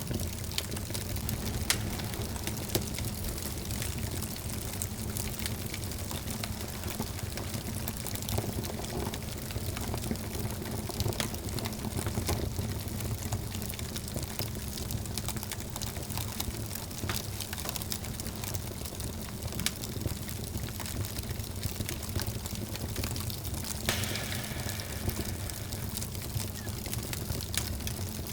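Wood fire burning in a fireplace: a steady low rush with frequent sharp crackles and pops, and a thin hiss joining in near the end.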